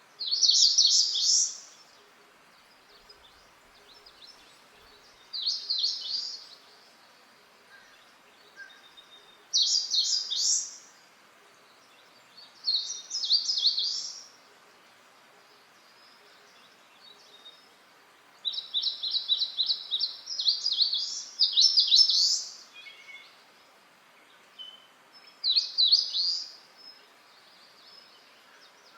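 A bird singing short high phrases of quick repeated notes, each about a second long, every few seconds, with a longer run of phrases about 18 to 23 seconds in. A faint steady hiss lies beneath.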